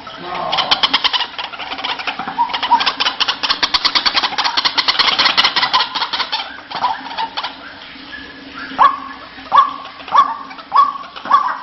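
White-breasted waterhens calling: a fast chattering run of croaking notes lasting several seconds, then, after a short lull, a series of sharp 'kwak' notes repeated about every two-thirds of a second.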